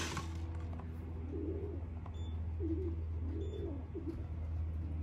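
Racing pigeons cooing: several low, rising-and-falling coos one after another, over a steady low hum.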